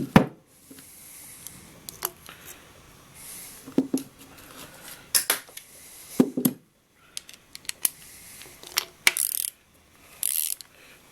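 Metal hand tools clinking and clicking against each other and the engine as a wrench is picked up and fitted, in scattered sharp knocks with a couple of short rustles.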